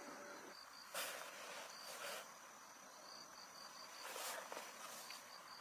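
Insects chirping faintly, in quick runs of short high-pitched pulses, with three brief bursts of noise about one, two and four seconds in.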